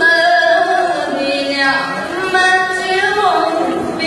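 A female voice reciting the Quran in melodic tajweed style, holding long drawn-out notes that slide up and down in pitch.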